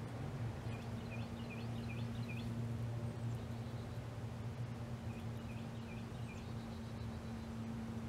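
A bird chirping in two quick runs of short repeated notes, the second run about three seconds after the first, over a steady low hum.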